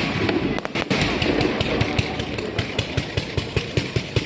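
Fireworks display: a dense, rapid crackle of many small bangs, several a second.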